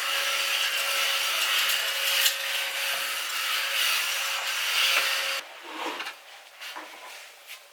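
Handheld mini vacuum cleaner running with a steady whine as it is worked over bedding, switched off about five seconds in, followed by faint handling sounds.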